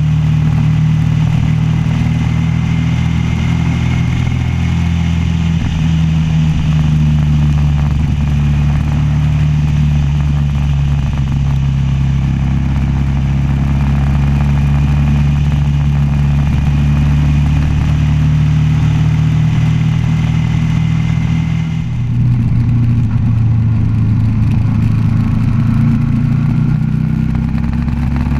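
Suzuki V-Strom 650's V-twin engine running steadily at cruising speed on the road, with rushing wind noise. About three quarters of the way through, the engine note dips briefly and then settles at a different pitch.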